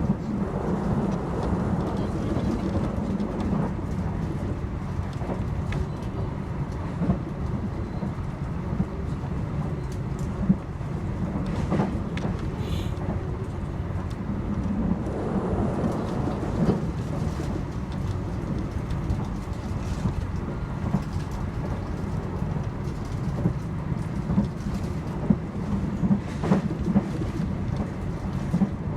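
Argo Bromo Anggrek passenger train running at speed, heard from on board: a steady low rumble of wheels on the rails with occasional sharp clicks.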